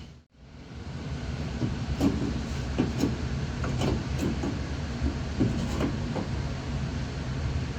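Steady low rumble of garage background noise, with scattered light clinks and knocks of hand tools and metal parts during work on engine mounts. The sound cuts out briefly just after the start.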